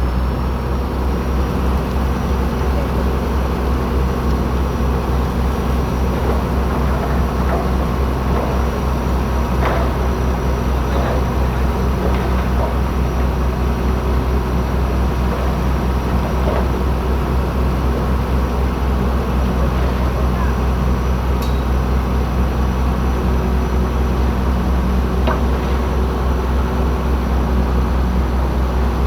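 Bulldozer's diesel engine running steadily, a deep drone, with a few light knocks now and then.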